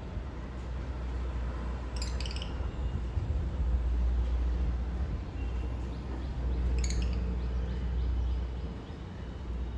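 African lovebirds giving short, shrill chirps, once about two seconds in and again near seven seconds, over a steady low rumble.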